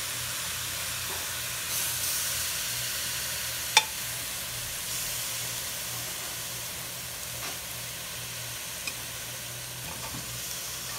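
Shredded chicken filling sizzling as it fries in a wide pan while being stirred with a metal spoon. A sharp clink of the spoon against the pan comes about four seconds in, with a few lighter taps later.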